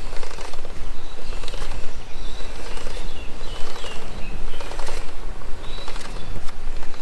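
Small birds chirping in short, scattered calls over a loud, steady rushing noise with a low hum underneath.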